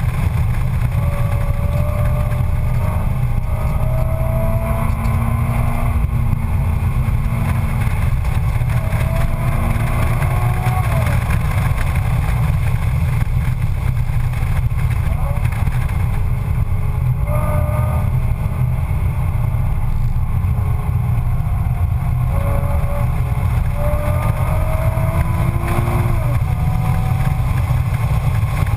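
Nissan 350Z's 3.5-litre V6 heard from inside the cabin during track driving, its pitch climbing for a few seconds under acceleration and dropping back at each shift or lift, several times over. A heavy, steady low rumble of road and engine noise lies underneath.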